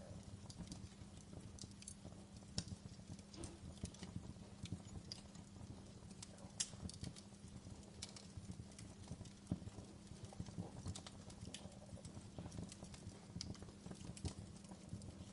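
Wood fire in a fireplace crackling: irregular sharp pops and snaps, a few louder than the rest, over a steady low rumble of burning.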